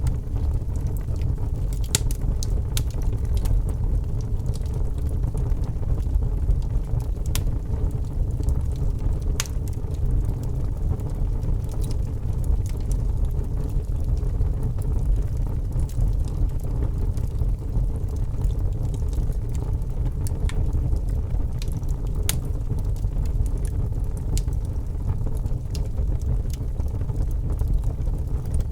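Wood fire burning in a fireplace: a steady low rumble with scattered sharp crackles and pops from the burning wood at irregular intervals.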